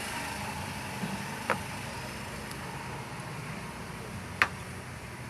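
A steady low engine-like hum with two sharp clicks, one about a second and a half in and a louder one near the end.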